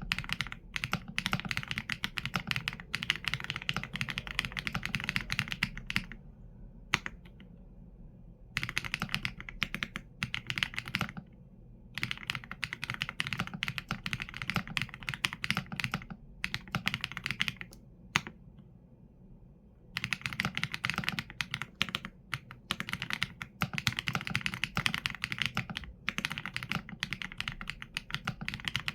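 Typing on a mechanical keyboard with Leobog Graywood V4 linear switches and PBT keycaps: fast runs of keystrokes broken by short pauses of a second or two.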